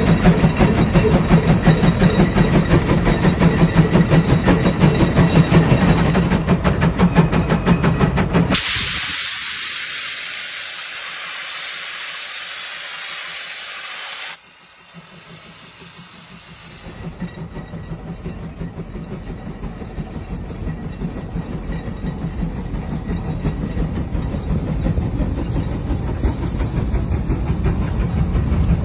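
Large steam tractor (steam traction engine) running with a rapid, even beat. About eight seconds in, a loud steady hiss of venting steam takes over for about six seconds and then cuts off suddenly. The rhythmic running returns and grows louder toward the end.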